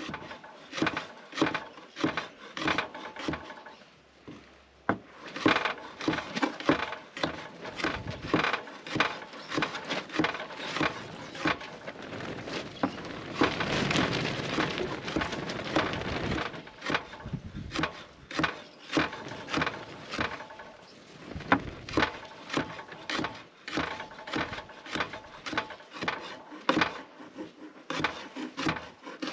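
Wood being worked by hand: a long string of sharp cracks and knocks with scraping, and a few seconds of steady rasping about halfway through.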